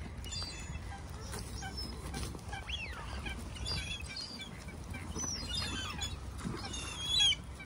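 Scattered short, high bird calls and chirps from birds at the water, over a steady low rumble. There is a falling call about three seconds in and a louder burst of calls near the end.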